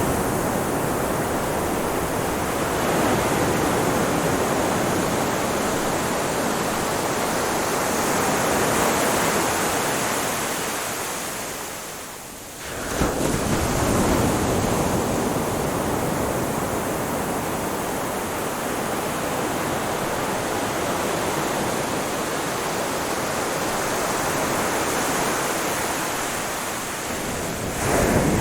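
Ocean surf washing onto a beach: a continuous hiss of waves that swells and eases every few seconds. About halfway through it dies away to a lull and then comes back abruptly.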